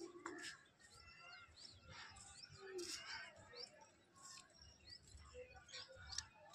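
Faint bird chirping: a run of short, high chirps repeating about twice a second.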